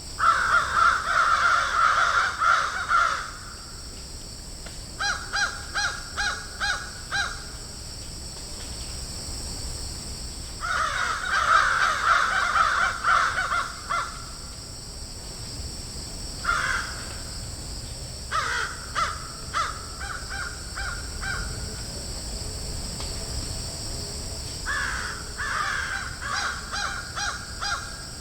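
Crows cawing in a field: dense bursts where several birds call over each other, alternating with series of short, rapid caws and one lone caw, over a steady high hiss.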